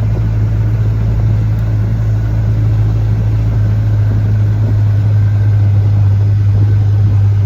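Car engine and road noise heard from inside the cabin while driving: a steady low drone, getting a little louder toward the end.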